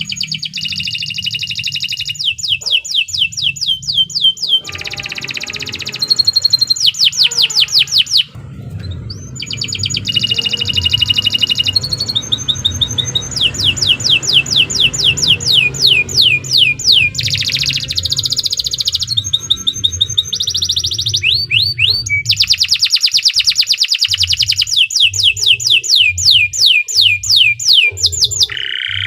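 Domestic canary singing a long, continuous song of rapid trills and fast series of notes that sweep down in pitch, broken by a couple of brief pauses.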